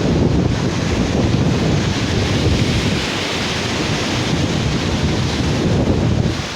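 Sea surf washing on a beach, with strong wind buffeting the microphone; the hiss of the wash swells briefly about halfway through.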